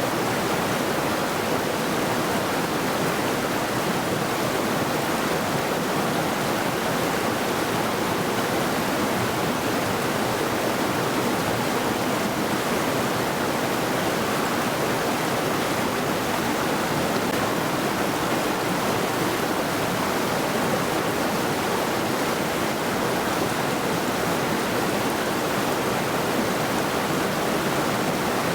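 A mountain river rushing steadily over rocks, a continuous even rush of water with no breaks.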